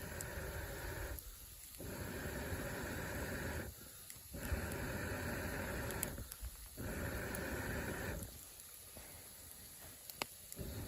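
A person blowing air in long breaths, each lasting about two seconds, with a short pause for breath between them, four times over. This is typical of blowing on a campfire to liven it.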